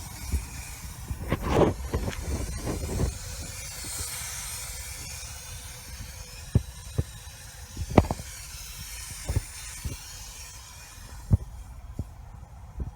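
Rust-Oleum high-heat aerosol spray paint hissing from a nearly empty can in long sprays, stopping near the end, with a few short knocks.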